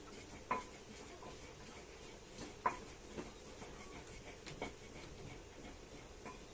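A few light knocks and clicks of kitchen utensils being handled during cooking. The two sharpest come about half a second in and about two and a half seconds in, with softer taps between them and near the end.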